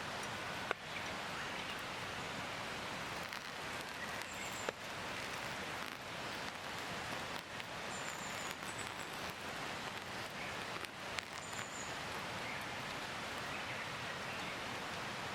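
Steady rain falling through the forest, with a few sharper drops hitting close by and a few faint, short, high chirps.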